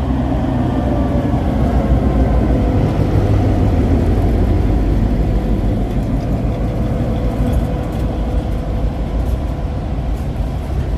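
Locomotive engine running steadily, a loud low rumble with a faint steady whine above it.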